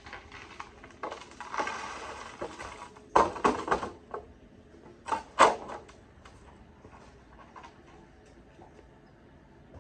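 Handling noises: a rustling stretch, then two loud clusters of knocks and clatters, about three and five seconds in, followed by a few faint ticks.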